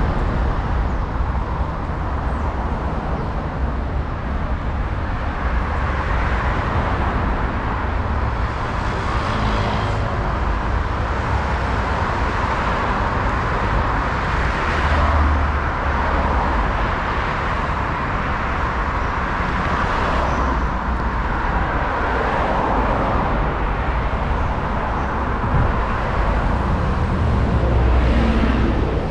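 Steady road traffic with cars passing by, swelling louder about halfway through and again near the end.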